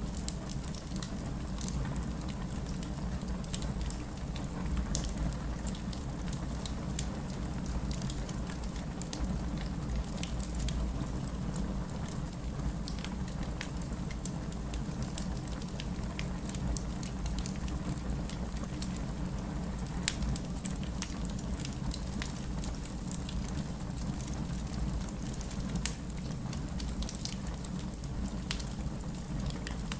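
Wood fire burning with a steady low rush of flames and frequent irregular sharp crackles and pops from the burning logs.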